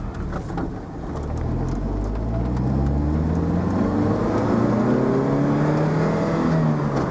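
Vauxhall VX220's 2.2-litre 16-valve four-cylinder engine accelerating hard, its note dipping briefly about a second in and then rising steadily in pitch and loudness as it pulls through the gears.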